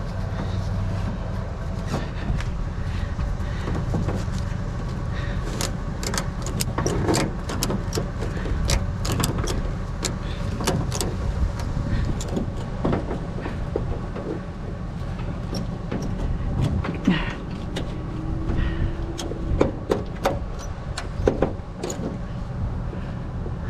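Items being shifted and loaded into a truck bed: a run of knocks, clunks and clatter, thickest from about five seconds in until near the end, over a steady low rumble.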